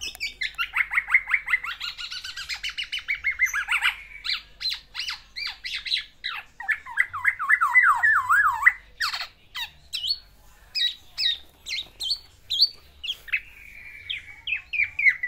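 Black-naped oriole (kepodang) singing a long, rapid, varied string of notes and phrases: its "isian", learned song material delivered to court a female.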